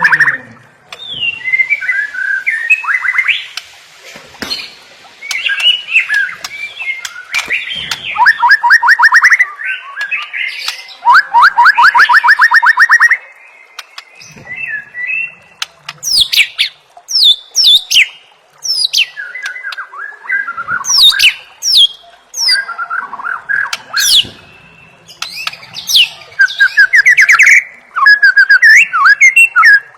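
White-rumped shama singing a loud, varied song. It mixes warbled phrases with fast, even trills and sharp downward-sweeping whistles.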